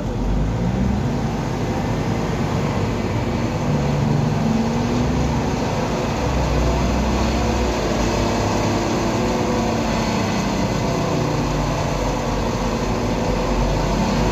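Audi A4 2.0 TDI four-cylinder turbodiesel engine running under load, its pitch climbing slowly in stages under a loud wash of noise, rising faster near the end.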